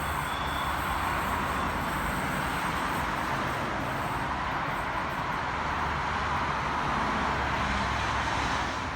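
A V-set double-deck electric intercity train approaching the station platform, giving a steady running noise of wheels on rail with a low rumble underneath.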